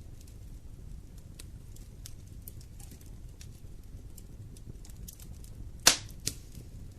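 Wood fire in a fireplace burning with a low rumble and scattered faint crackles, then two sharp loud pops close together near the end.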